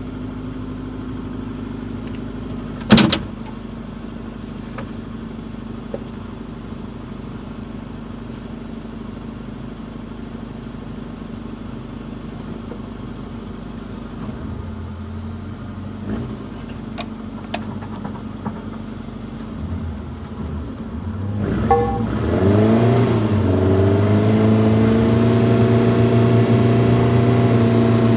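Suzuki Jimny engine running at a steady low speed, with one sharp knock about three seconds in and a few light clicks later. About three quarters of the way through, the engine revs up and holds at a steady, louder, higher speed.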